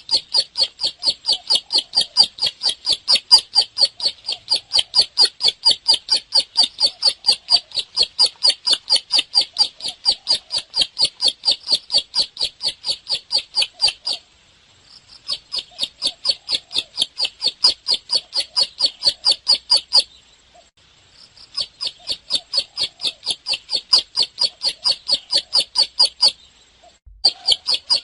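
Bar-winged prinia (ciblek) singing vigorously: a long, fast run of sharp, high, repeated chirps, about four a second, stopping briefly three times before starting again.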